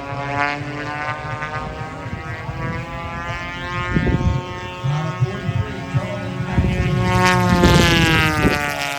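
Gas engines of large radio-controlled warbird race planes running at full throttle in flight. The pitch sags, then climbs as a plane comes past loudest about seven to eight seconds in, and drops away again near the end.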